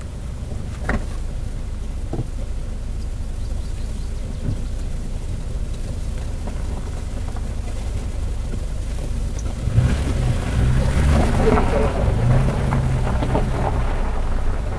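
Wind buffeting the microphone, a steady low rumble. From about ten seconds in, louder scattered rustling and knocking joins it.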